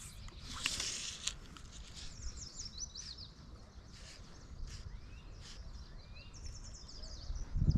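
Small birds calling: several rapid high-pitched trills and a few short rising chirps, over a faint low outdoor background rumble.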